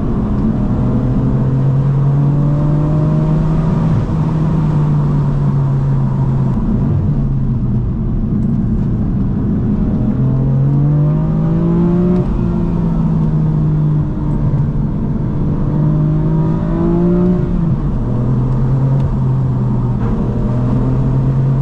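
BMW M4 F82's twin-turbo inline-six engine and exhaust under way, steady for several seconds, then rising in pitch under acceleration twice, around ten seconds in and again around sixteen seconds, each time falling back sharply.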